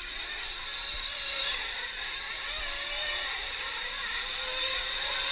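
Two-stroke glow engines of 1/8-scale nitro RC race trucks running at high revs: a steady high whine whose pitch wavers up and down as the trucks speed up and slow around the track.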